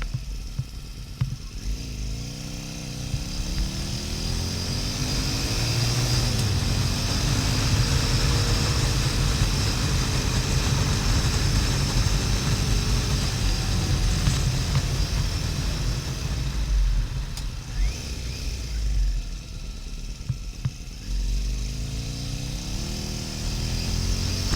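Harley-Davidson XL1200N Sportster's air-cooled V-twin engine heard while riding, with wind rush on the helmet camera. The engine note rises as it accelerates a couple of seconds in, holds at cruising speed, drops as the bike slows about two-thirds of the way through, then climbs again near the end.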